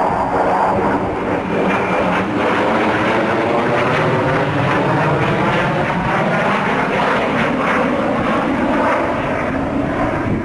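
Sukhoi Su-27 jet fighter's twin afterburning turbofans running loud in a display flight, with a whine of closely spaced tones whose pitch slowly slides as the aircraft passes and manoeuvres.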